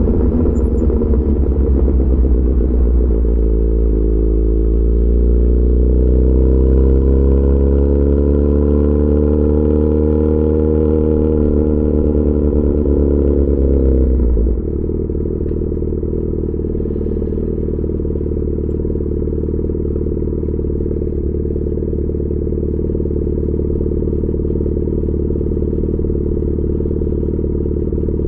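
Yamaha XJ6 S's 600 cc inline-four running through an aftermarket SC-Project exhaust, its pitch climbing smoothly under throttle. About halfway through the sound drops suddenly as the throttle closes, and the engine settles into a steady, lower, even note.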